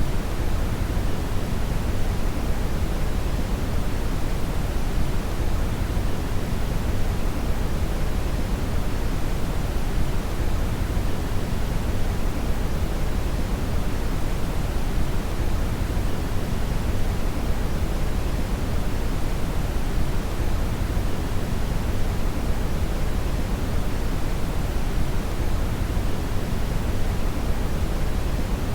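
Steady synthetic brown noise (red noise): an even, deep hiss that is strongest in the lows and falls away in the highs, never changing.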